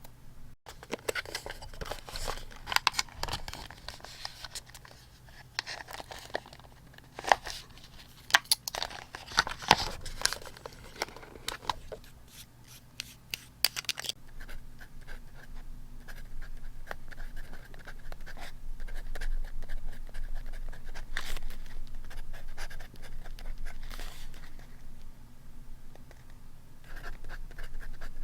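Close-up paper handling from scrapbook journaling: rustling and crinkling of paper with many sharp clicks and taps, giving way about halfway through to a steadier, continuous scratching or rubbing on paper.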